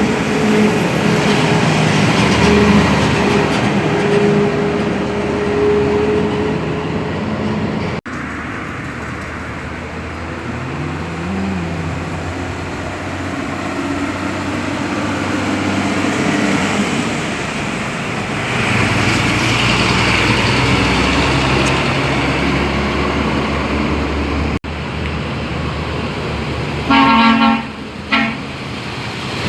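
Road traffic with trucks passing, engines running and tyres hissing. Near the end a vehicle horn blows loudly, twice in quick succession.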